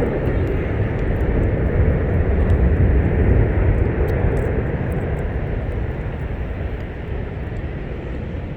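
Boeing 777 jet airliner passing close by: a deep jet-engine rumble with rushing noise, swelling to its loudest a few seconds in and then slowly fading.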